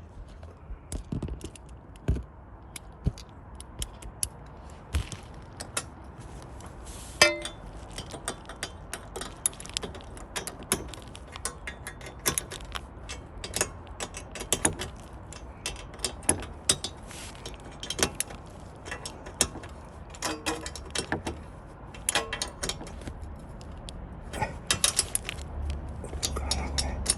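Irregular metallic clicks and clinks of hand tools and small metal parts being handled, with no engine running.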